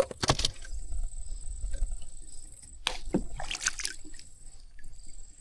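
Water splashing and sloshing in two bursts, one at the start and one about three seconds in.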